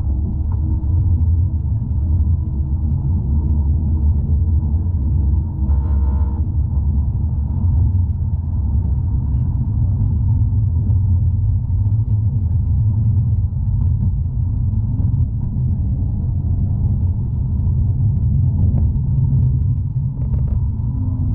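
Amsterdam tram in motion, heard from inside the car: a steady low rumble of wheels and running gear on the rails.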